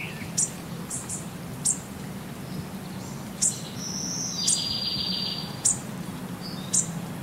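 Birds chirping: short high chirps roughly once a second, with a longer rapid trill around the middle, over a steady low hum.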